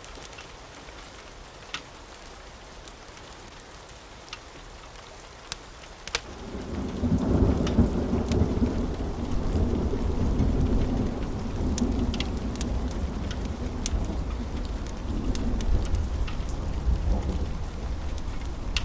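Steady rain with scattered sharp crackles of a wood fire; about six seconds in a long low roll of thunder swells up and keeps rumbling.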